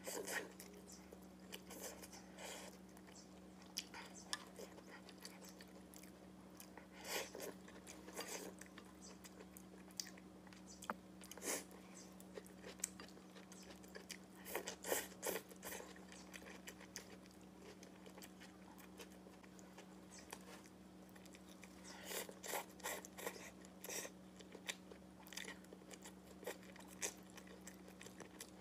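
A person chewing and biting soft food (a steamed bun and stir-fried green pepper with egg), heard as clusters of small mouth clicks every few seconds over a steady low hum.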